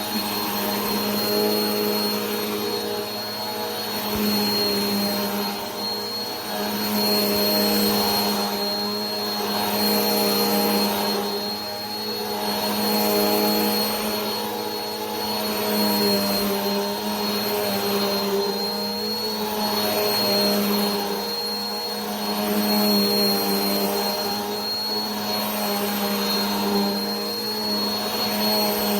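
Vacuum cleaner running steadily: a low motor hum and a thin high whine over a rush of air that swells and fades every two to three seconds.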